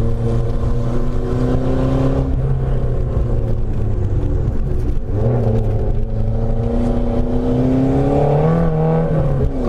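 Renault 5 Alpine Turbo's turbocharged four-cylinder engine under hard acceleration, heard from inside the cabin. The engine note breaks twice, about two and five seconds in, then rises steadily.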